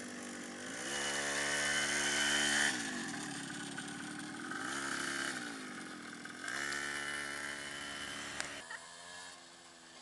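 Small single-cylinder minibike engine revved up and held three times, each rev falling back toward idle, the last easing off near the end.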